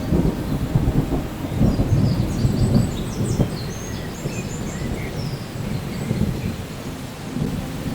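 Thunder rumbling in long, rolling swells over steady rain, the low rumble strongest a couple of seconds in.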